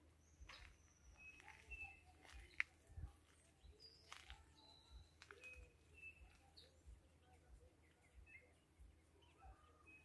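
Faint, scattered short chirps of small birds, with a few sharp clicks and light rustles; the loudest is a single click about two and a half seconds in.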